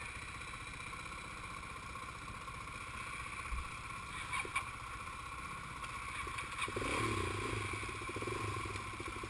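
Dirt-bike engines idling, with one picking up in revs for a couple of seconds about seven seconds in as it pulls up a rocky ledge.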